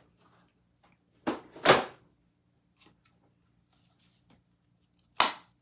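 Loud, short knocks and scrapes of craft supplies being handled on a work surface: two close together about a second and a half in, and one more near the end.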